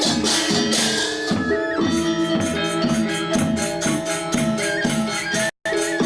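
Balinese gamelan gong ensemble playing classical lelambatan music: sustained ringing bronze metallophone and gong tones under a steady stream of clashing ceng-ceng cymbal strokes. The sound drops out for an instant about five and a half seconds in.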